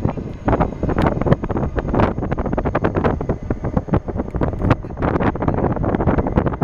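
Strong gusty wind buffeting the microphone: a constant low rumble broken by rapid, irregular crackles and thumps.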